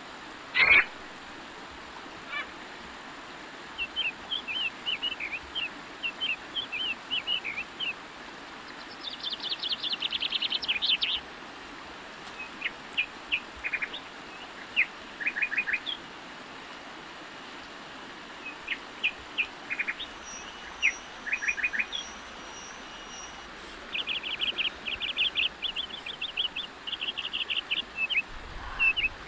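Small birds chirping, with quick runs of short, high notes and trills repeating on and off over a steady background hiss. A single brief, louder sound comes about a second in.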